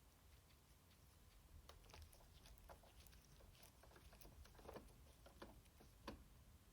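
Faint, irregular light clicks and taps of small hard parts being handled, beginning about two seconds in.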